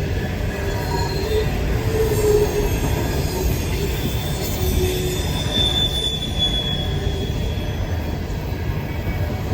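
Rail cars of a freight train rolling past in a steady rumble, with thin wheel squeals now and then, the clearest a high one near the middle.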